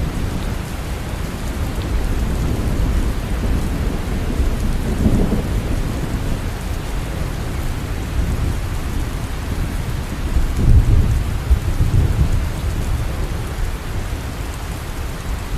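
Steady heavy rain with low rolling thunder rumbling through it, swelling around five seconds in and most strongly from about ten to twelve seconds in.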